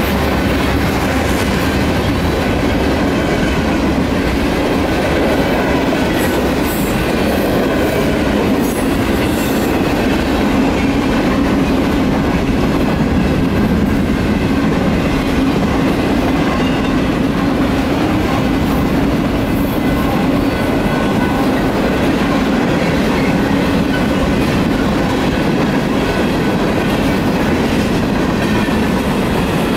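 Freight cars of a Union Pacific manifest train rolling past at a steady pace, a continuous wheel-on-rail noise. The grade crossing's General Signals Type 3 electronic bell rings throughout.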